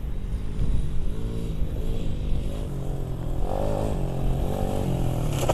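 A pit bike engine runs and revs up and down, climbing in pitch about three and a half seconds in before easing off again.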